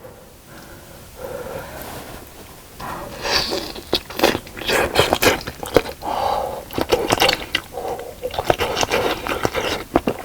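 Close-miked eating of spicy fish cake soup with rice cakes: wet chewing, mouth smacks and clicks. It starts soft and becomes a busy run of smacks about three seconds in.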